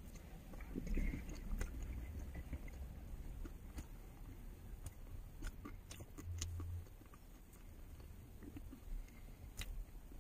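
A person chewing and biting into a snack close to the microphone, with small scattered crunches and clicks over a low cab rumble.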